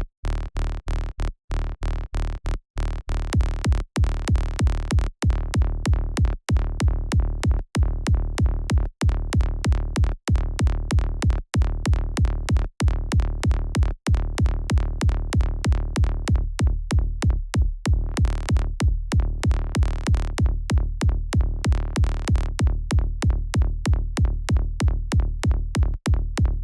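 Electronic dance loop of a synthesized kick drum and a pulsing synth bass, repeating steadily with strong low end. Brighter high percussion joins partway through, and the loop cuts off suddenly at the end.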